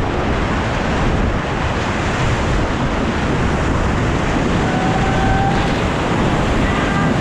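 Whitewater rapids: loud, steady rushing of river water around a raft.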